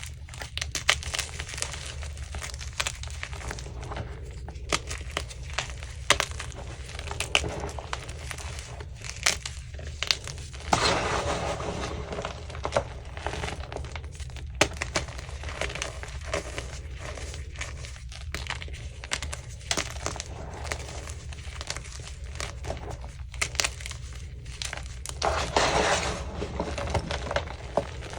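Chunks of magnesium-carbonate gym chalk being crushed and crumbled, with many sharp crackles and snaps and two longer, denser crunching stretches, one near the middle and one near the end.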